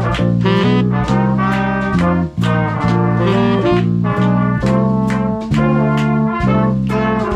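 Swing big band playing, its brass section of trumpets and trombones to the fore over regular drum beats.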